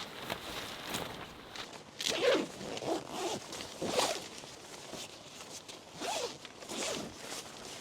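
A zipper pulled in several quick strokes, each a short rasping sweep that slides up or down in pitch.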